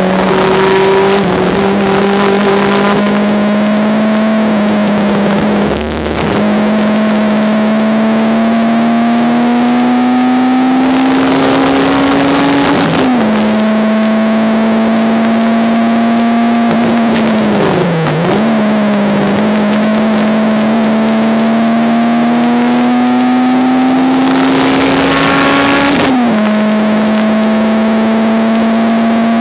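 Honda Civic race car's engine heard from inside the car under hard acceleration. The revs climb slowly in each gear, falling sharply at gear changes about six, thirteen and twenty-six seconds in, with a brief dip and recovery around eighteen seconds. The recording is harsh and poor in quality.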